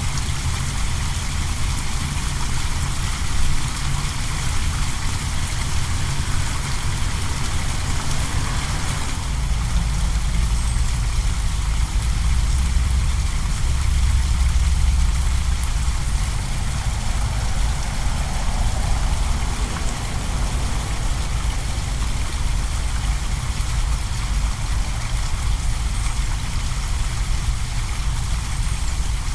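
Small manmade waterfall splashing steadily into a pond, an even rushing hiss over a steady low rumble that swells for a few seconds near the middle.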